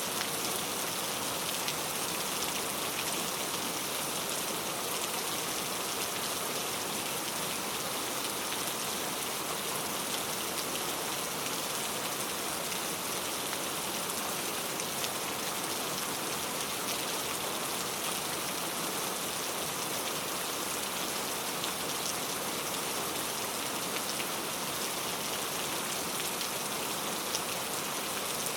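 Steady, even rain with many fine drop ticks.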